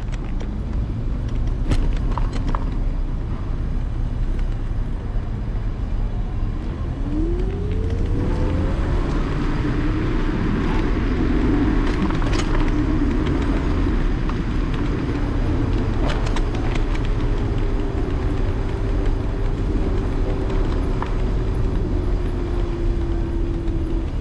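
Street noise heard from a moving electric scooter: a steady low rumble of road and wind with city traffic and scattered clicks. About seven seconds in, a whine rises quickly, then sinks slowly over the rest of the stretch.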